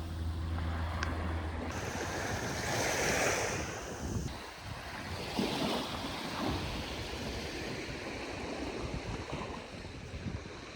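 Sea waves washing onto a beach in slow swells, with wind buffeting the microphone. A low steady hum runs under the first couple of seconds, then stops.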